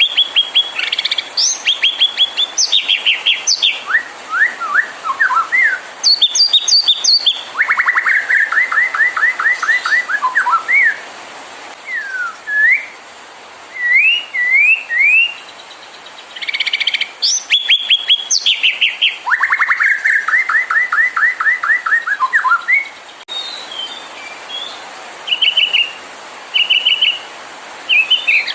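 White-rumped shama singing a long, varied song: fast trills, upward-sliding whistles and high chips in quick phrases, with short pauses between them.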